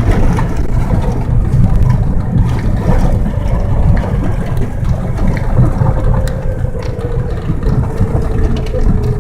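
Car engine running under load with a steady low rumble of tyres on a snow-covered dirt road, heard from inside the car. A steady engine note sinks slightly in pitch over the last few seconds.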